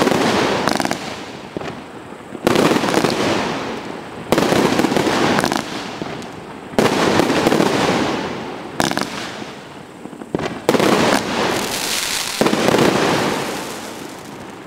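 Royal Party Fireworks RP60 firing shot after shot, about seven in all, one roughly every two seconds. Each starts with a sudden loud bang and trails off in a noisy tail that fades over a second or two.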